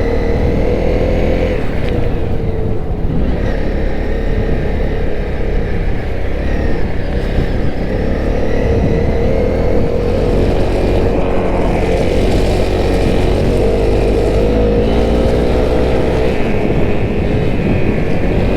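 Honda CRF250L's single-cylinder four-stroke engine running under way, its note rising and falling a little with the throttle.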